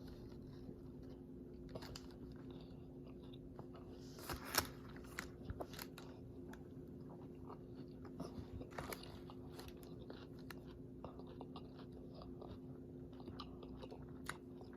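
Bites into a crispy fried chicken sandwich and chewing, with scattered crunches of the breaded crust; the loudest crunches come about four seconds in. A steady low hum runs underneath.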